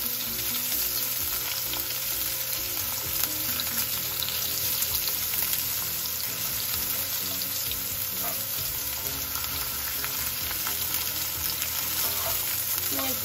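Thick slices of fresh ginger sizzling steadily in hot oil in a steel wok, with a slotted spatula now and then scraping and tapping the pan as the slices are spread out to fry.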